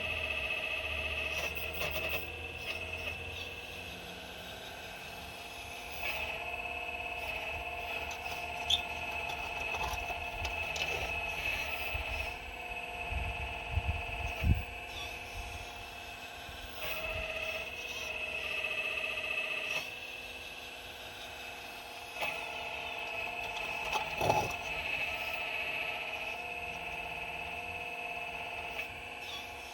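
4200XL excavator working at big rocks: a steady high-pitched motor whine comes and goes in stretches of several seconds as the machine moves. Rock clunks and knocks come about halfway through and again near the end.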